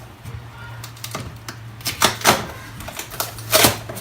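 A few sharp knocks and clicks as a plastic motor-oil jug is handled, the loudest about two and three and a half seconds in, over a steady low hum.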